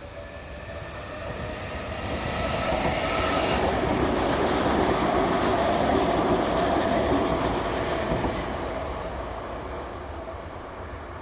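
Tokyu 9000 series electric train passing by on the track. It grows louder over the first few seconds, stays loudest through the middle, then fades away, with a couple of sharp wheel clicks near the end of the loudest part.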